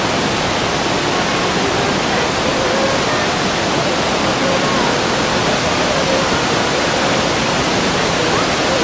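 Loud, steady rush of falling water from a mountain waterfall, with no breaks.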